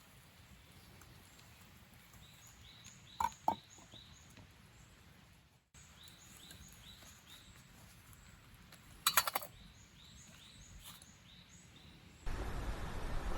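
Forest wildlife: a faint, high, falling call repeated about three times a second, with two louder short calls a little over three seconds in and a brief rattle just after nine seconds. A louder even rushing noise comes in near the end.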